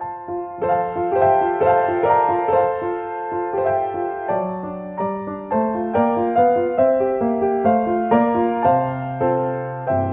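Background piano music: gentle notes played at an even pace over a slowly moving bass line.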